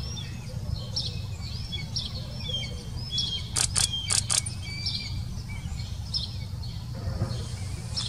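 Bird chirping: short high chirps about once a second, some with quick sliding notes, over a steady low rumble. Four sharp clicks come in quick succession about halfway through.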